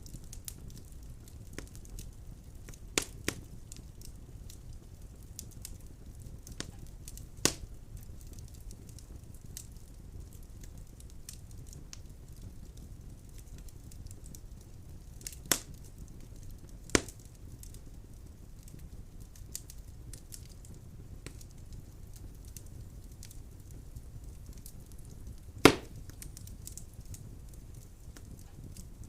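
Wood fire crackling in a fireplace: a steady low rumble of flames with scattered faint ticks and several sharp pops of burning logs, the loudest near the end.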